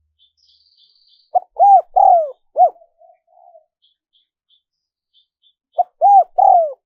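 Spotted dove cooing: a phrase of four arched coos with a soft trailing note about a second and a half in, and the same phrase again near the end.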